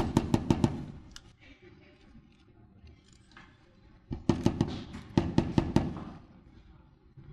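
Rapid hard knocking, about six or seven sharp knocks a second, in two bursts: one ending about a second in and a longer one from about four to six seconds in.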